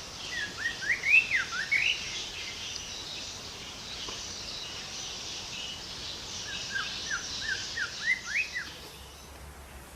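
A songbird singing two short phrases of quick whistled notes that slide up and down, about six seconds apart, over a steady high-pitched background hiss.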